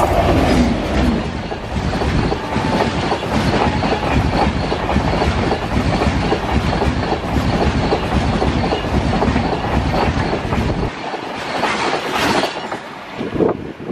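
Express train hauled by a WAP-7 electric locomotive passing close by at speed: the locomotive's rush, then the fast, continuous clatter of coach wheels over the rails. The deep rumble drops away about eleven seconds in, as the tail of the train goes by.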